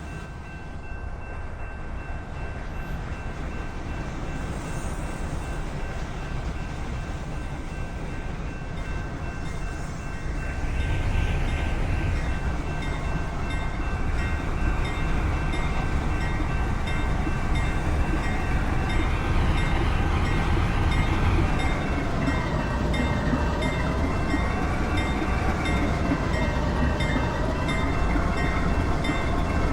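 Train rolling by, a steady rumble that grows louder about ten seconds in. Through the second half, tones slowly rise and fall in pitch over it.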